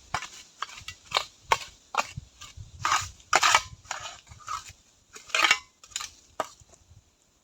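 A run of irregular, sharp crunching strokes, about two or three a second, that stop about a second before the end.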